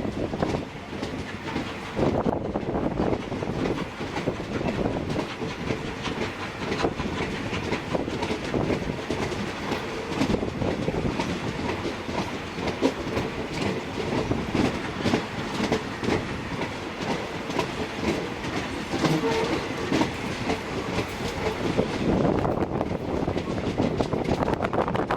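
A train of wagons hauled by a South African Railways Class 24 2-8-4 steam locomotive rolling along, with a dense, steady rattle and clack of wheels on the rails.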